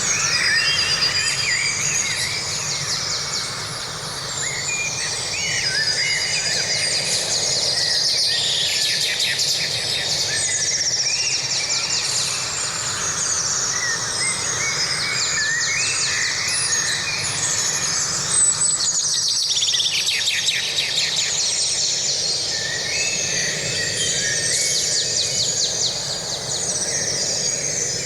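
Several songbirds singing at once in a forest, with rapid trills and short whistled phrases overlapping continuously over a steady low background noise.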